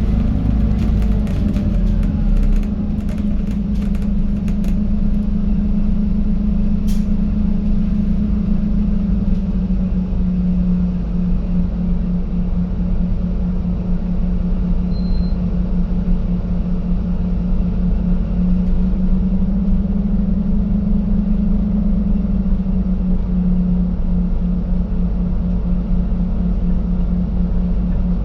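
Scania N280UD double-decker bus heard from inside the passenger saloon while driving: a steady low engine and road rumble with a strong hum that shifts slightly in pitch as the bus changes speed. There is a single sharp tick about seven seconds in.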